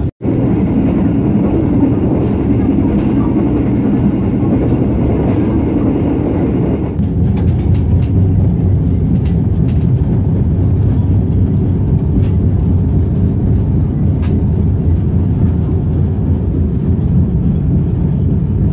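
Steady running noise of a passenger train, heard from inside a moving carriage: wheels on the rails and the carriage rumbling along. About seven seconds in it changes abruptly to a deeper, duller rumble.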